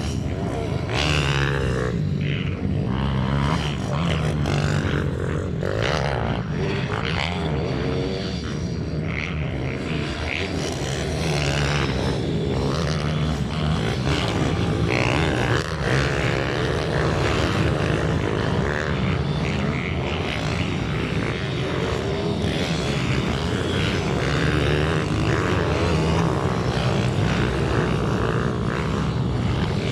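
Small minibike engines running hard at race speed, their buzzing pitch rising and falling without a break.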